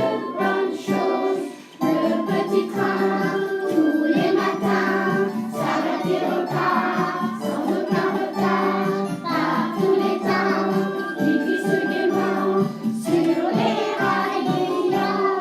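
Children's song: a group singing with instrumental accompaniment, with a short pause about two seconds in.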